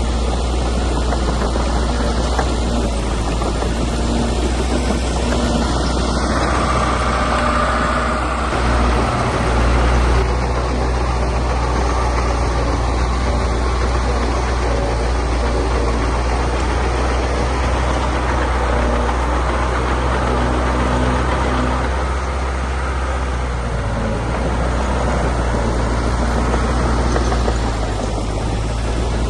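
Diesel engine of heavy earthmoving machinery running steadily with a low hum, a little louder about ten seconds in.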